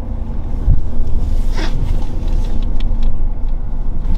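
Low steady rumble of a running vehicle's engine with a faint hum, a few light clicks, and a brief sweep about a second and a half in.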